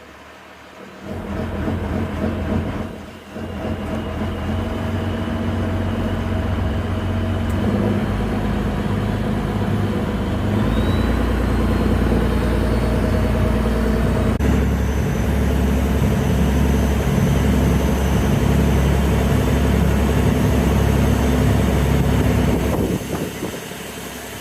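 Boat engine running steadily, dipping briefly about three seconds in.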